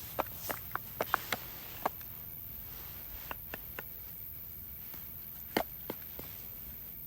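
Firewood being knocked and split by hand: scattered sharp wooden knocks and clicks, a cluster in the first two seconds and the loudest about five and a half seconds in.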